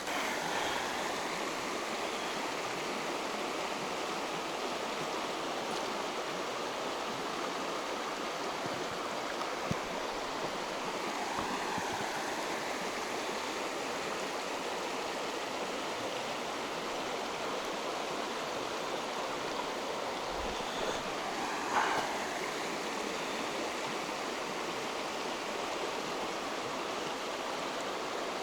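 Mountain river rushing steadily over its stony bed, with one short louder sound about three-quarters of the way through.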